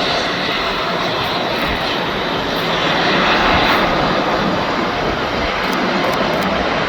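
Airbus A321neo's Pratt & Whitney geared turbofan jet engines running steadily at high power, with a loud, even rushing noise.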